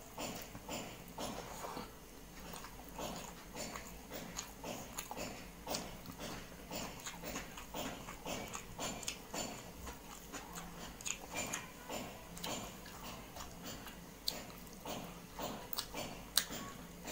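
A person eating close to the microphone: steady, wet chewing and lip-smacking, a few sharp clicks every second.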